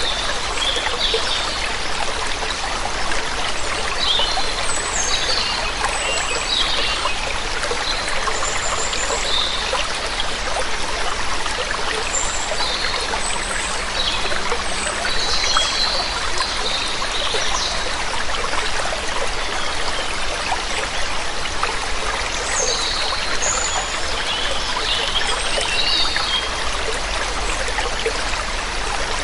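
Waterfall water rushing steadily, with songbirds giving short high chirps and calls that come and go in several clusters over it.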